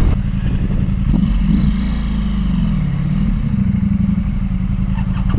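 Motorcycle engine running under way, a steady drone whose pitch sags about three seconds in and then climbs back.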